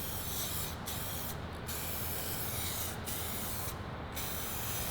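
Aerosol spray-paint can spraying in several long hissing bursts, each broken off by a brief pause.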